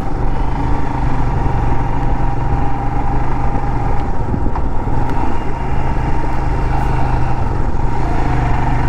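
Motorcycle engine running at a steady cruise while riding, its even drone mixed with road and wind noise.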